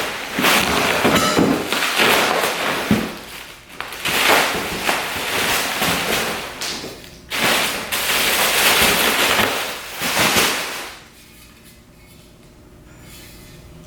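Rustling packaging and clunking metal exhaust pipes being unpacked and handled, with several sharp knocks; the handling noise stops about eleven seconds in.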